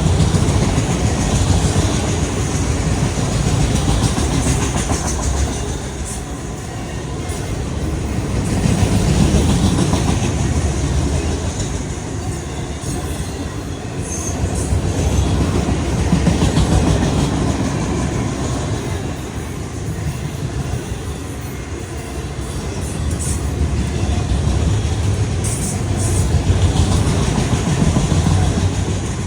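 Autorack freight cars rolling past on steel wheels, a steady rumble with clickety-clack over the rails that swells and fades every several seconds.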